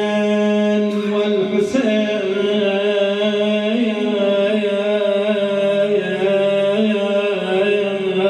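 A man chanting an Arabic Shia mourning elegy (na'i), unaccompanied, holding long wavering notes that glide slowly from one pitch to the next.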